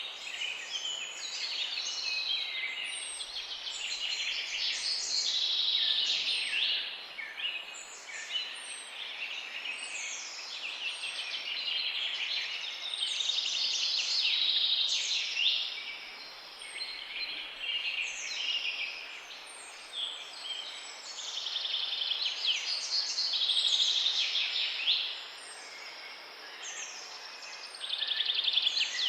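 Several songbirds singing at once: a dense chorus of high chirps, whistles and trills that overlap almost without a break.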